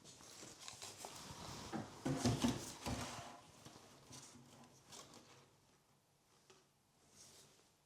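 Household objects being handled: light knocks, clicks and rustling as things are moved and set down, busiest in the first three seconds, then only a few soft ticks.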